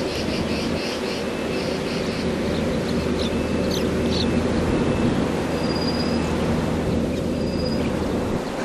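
Bird calling: a quick run of short high notes at the start, then a few sharp chips and several thin, short whistles, over a steady low background rumble.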